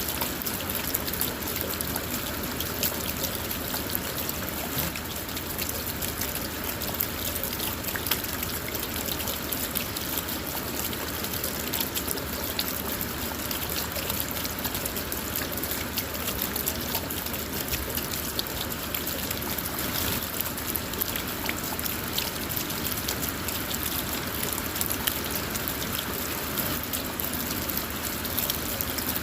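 Steady rain falling on a car: a constant hiss dotted with many small ticks of individual drops striking.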